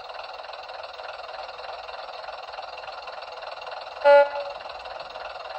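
Sound-fitted Bachmann class 101 DMU model's onboard speaker playing the diesel unit's running engine sound, thin and steady with no bass. A short horn toot sounds about four seconds in.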